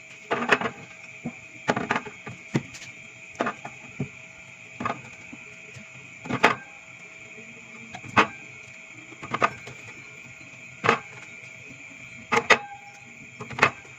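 Items being set down and arranged while restocking a mini fridge: a string of sharp knocks and clatters about every one to one and a half seconds, over a steady faint high hum.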